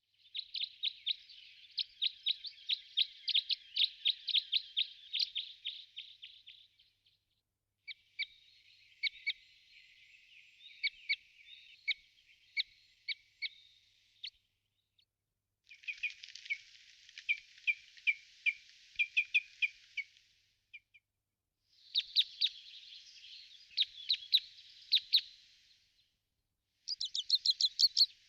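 Birds chirping in rapid high-pitched series, several chirps a second. They come in five separate stretches of a few seconds each, each cut off abruptly by a short dead-silent gap.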